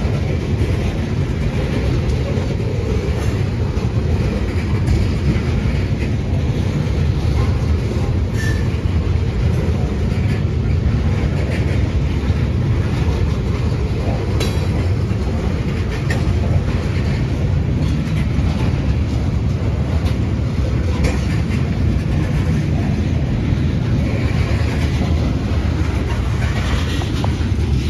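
Ethanol tank cars of a freight train rolling past: a steady low rumble of steel wheels on rail, with a sharp wheel clack now and then.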